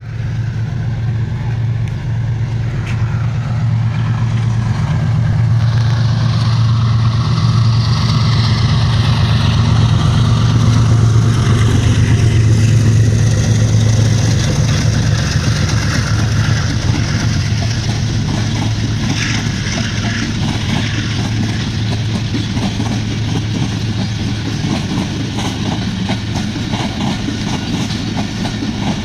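Passing passenger express train: a diesel locomotive's steady low engine drone, loudest about a third of the way in, then the coaches rolling by with wheels clattering over the rail joints in the second half.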